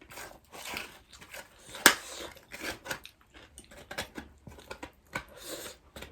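Close-miked eating sounds: wet chewing and mouth smacks with scattered small clicks, and one sharp click about two seconds in.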